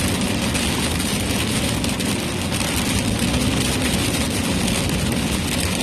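Steady vehicle noise heard from inside the cab: a low engine and road rumble under a constant hiss.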